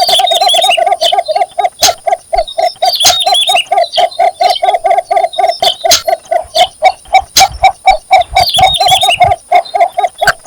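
Cinnamon bittern giving its mating call: a long unbroken run of short, low, evenly spaced notes, several a second. Other small birds chirp higher up now and then.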